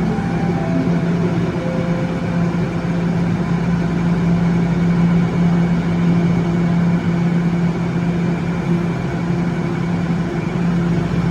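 TTC subway train at a station giving a steady low hum over a constant rushing noise, even throughout with no rise or fall in pitch.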